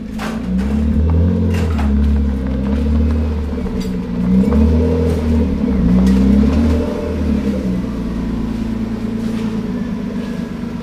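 A car engine running, its revs rising and falling several times before settling to a steadier idle about eight seconds in.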